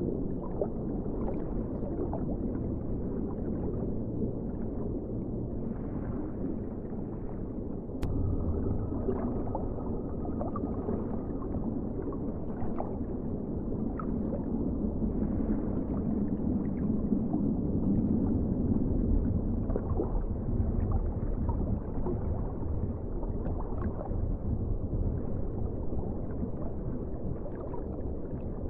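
Underwater ocean ambience: a steady, low rushing wash of water with faint gurgles. About eight seconds in it steps up abruptly and grows slightly louder.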